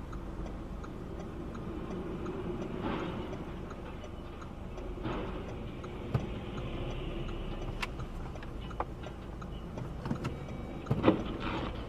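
Steady low vehicle running noise with faint, evenly spaced ticking and a few sharp clicks, the loudest about eleven seconds in.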